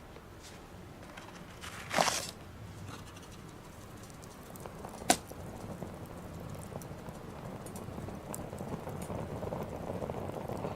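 Small wood fire crackling in a mini stainless-steel fire pit, with scattered faint ticks, a louder crack about two seconds in and a sharp pop about five seconds in. A rustling hiss swells near the end.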